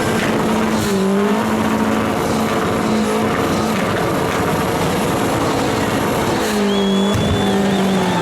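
Car engine held at high revs with tyres squealing, loud and steady, with brief dips in engine pitch about a second in and again near the end, as in a burnout.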